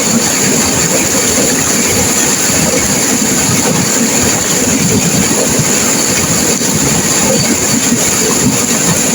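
Turbulent river water crashing and rushing, a loud, steady, unbroken noise.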